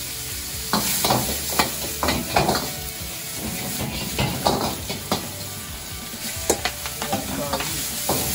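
Stir-frying in an iron wok over a gas burner: pork sizzling while a metal ladle scrapes and knocks against the wok and the wok is tossed, with sharp clanks scattered throughout. By the end bean sprouts and garlic chives are in the wok being stirred.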